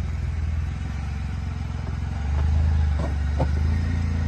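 Suzuki Jimny's engine running at low revs under load as it crawls up a rock ledge, getting louder about two seconds in as the driver feeds in throttle. A couple of short knocks come a little past the middle.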